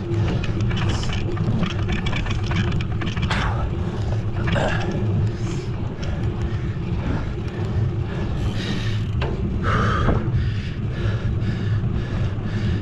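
Steady rumble of wind and road noise while riding a bicycle, with a few short higher-pitched sounds scattered through it.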